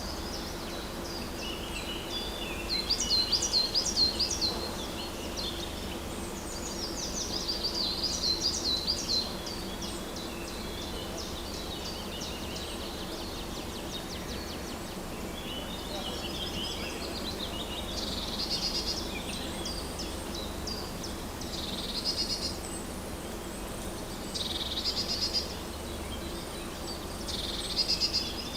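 Songbirds singing in short, rapid, high trilled phrases that come in bouts every few seconds, over a steady low background hum.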